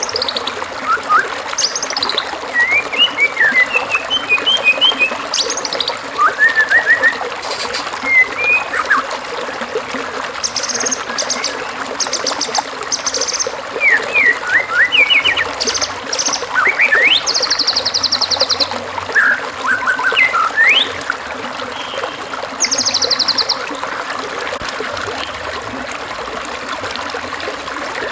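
Songbird calls from a masteran training recording for white-rumped shamas, made for a caged bird to copy: a run of varied short whistles, chirps and slurred notes, with several rapid high trills. They sit over a steady background of trickling water.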